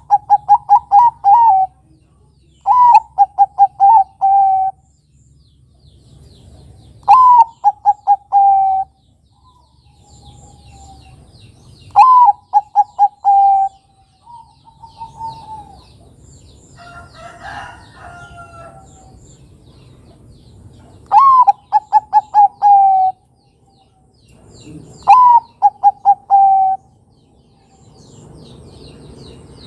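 Zebra dove (perkutut, Bangkok type) cooing: about six phrases, each a high opening note dropping into a quick run of five or six short, rhythmic coos. Faint high chirps of small birds and a low hum sit underneath.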